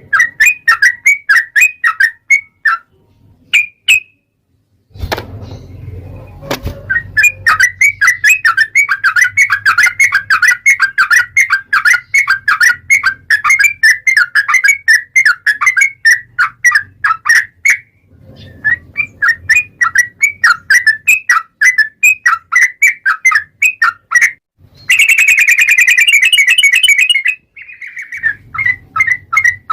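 Yellow-vented bulbul (trucukan) singing a long, rapid run of chirping notes, several a second, broken by a few short pauses. A harsher, buzzier stretch comes about 25 seconds in.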